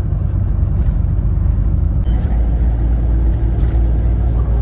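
Steady low rumble of a moving road vehicle, the kind heard from inside a car on the road.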